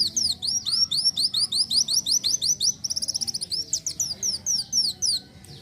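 Kolibri wulung sunbird singing a fast run of high, downward-sliding notes, about six a second, broken about three seconds in by a quick rattling trill. The song stops shortly before the end.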